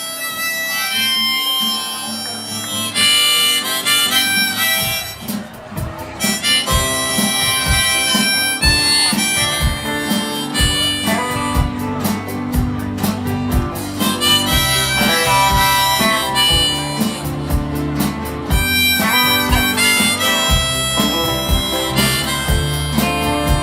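Instrumental introduction of a country-folk song: a harmonica plays the melody over guitar, and a steady beat with bass comes in about five seconds in.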